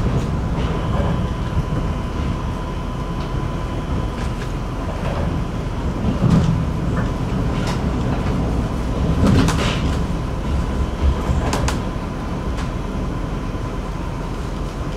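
City Elephant (ČD class 471) double-decker electric multiple unit running along the line: a steady rumble of the wheels on the rails, a thin steady high tone, and a few louder clatters of the wheels partway through.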